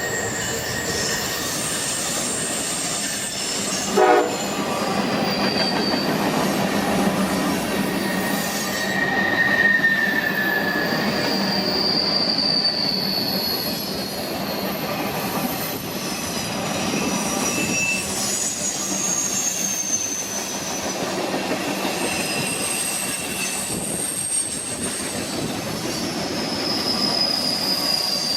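A train rolling past, its wheels squealing on the rails in thin high whines that come and go and drift in pitch, over the steady rumble of the passing cars.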